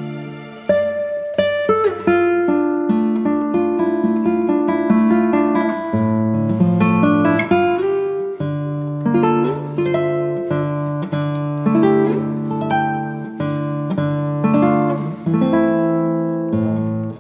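Background music: an acoustic guitar picking a melody over held chords.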